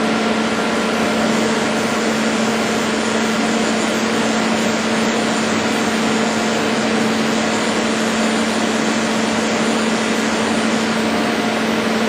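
CNC lathe running: a steady machine hum with an even hiss, holding constant throughout.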